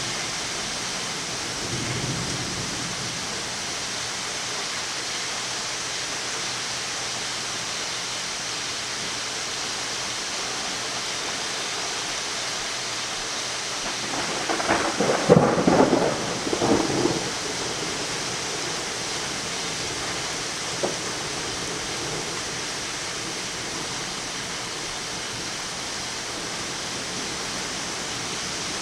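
Steady rain falling in a severe thunderstorm, with a burst of thunder about halfway through that crackles for a few seconds and is the loudest sound.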